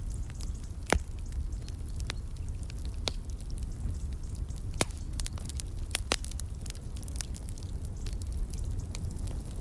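Wood fire crackling in a fireplace: irregular sharp pops and snaps over a steady low rumble, with the loudest pops about a second in and again around five and six seconds in.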